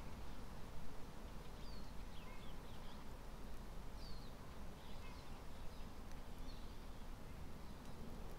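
Faint bird chirps, a few short quick notes scattered through the middle, over a steady low background rumble of forest ambience.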